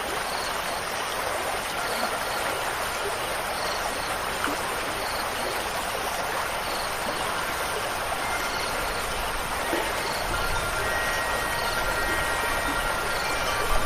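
Steady rush of flowing stream water. About ten seconds in, wind chimes begin ringing softly over it, with a low rumble of wind.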